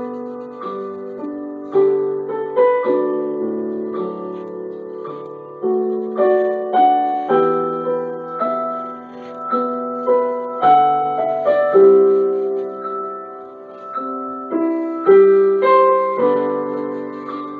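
Background music: solo piano playing a slow melody over chords, each note struck and left to fade.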